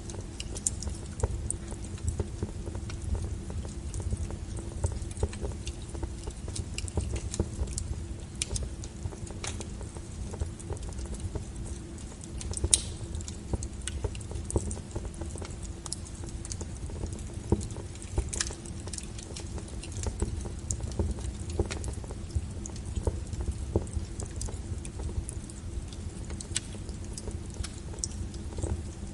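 Wood fire crackling: irregular sharp pops and snaps over a steady low rumble of the burning logs, with a few louder pops now and then.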